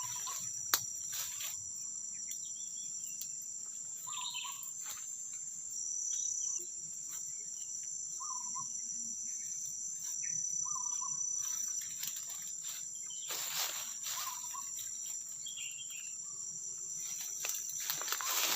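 Steady, high-pitched drone of forest insects such as crickets, with short chirping calls every few seconds and a couple of brief rustling noises, the clearest about two-thirds of the way through and at the end.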